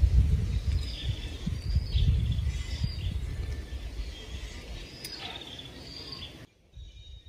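Birds chirping outdoors, short repeated high calls over a low rumbling noise that fades away. Near the end the sound drops off abruptly to a much quieter background with faint chirps.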